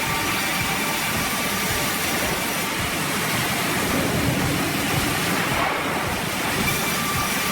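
Twin-blade saw running steadily, a loud, even noise that holds without a break.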